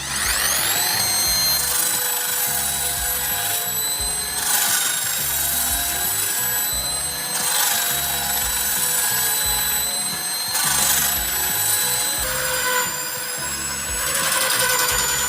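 Small electric power tool spinning up about a second in and then running at a steady high whine, with harsh grinding stretches every second or two as a knife blade is pressed against it for sharpening.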